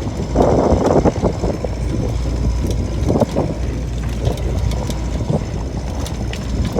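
Steady low rumble of a sailing ketch under way, with a louder rush of noise about half a second in.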